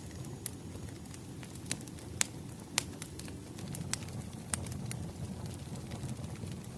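Wood fire crackling: irregular sharp pops and snaps, a few each second, over a steady low rumble of burning logs.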